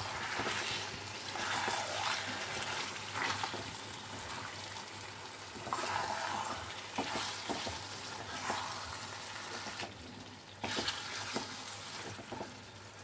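Chicken pieces with yogurt and nut paste sizzling in a hot frying pan while a spatula stirs and turns them. The sizzle swells with each stir, and the spatula scrapes and gives a few light knocks against the pan.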